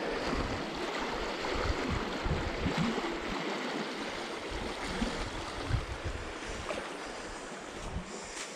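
A flowing stream rushing steadily, with irregular low thumps underneath.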